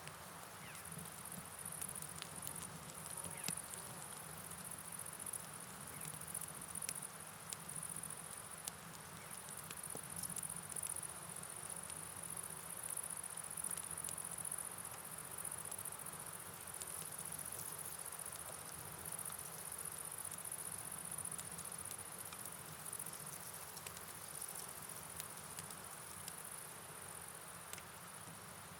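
Night rain ambience: a steady wash of rain and flowing water under a constant high chirring of crickets, with scattered sharp ticks of drops.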